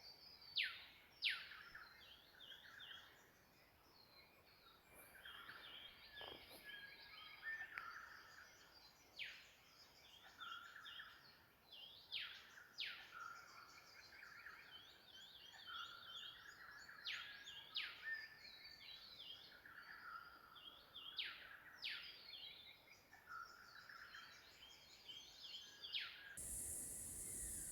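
Faint bush birdsong: several birds calling, with runs of short repeated chirps and quick, steeply falling whistles recurring throughout.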